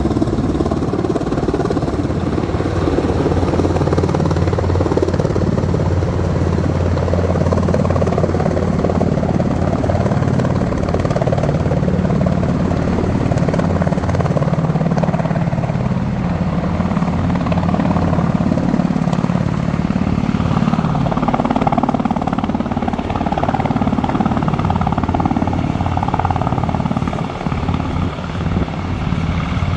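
Helicopter running, loud and steady, with a deep low rotor beat throughout.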